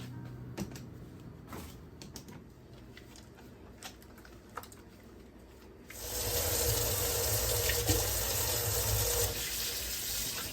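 A few faint clicks and knocks, then about six seconds in a tap is turned on and water runs steadily into a sink.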